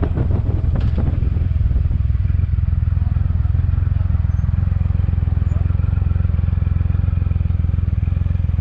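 Motorcycle riding at a steady pace: a steady low rumble of engine and wind noise that flutters rapidly in loudness.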